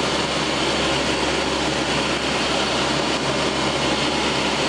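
Steady noise of a C-130 Hercules's four turboprop engines in flight, heard from inside the aircraft.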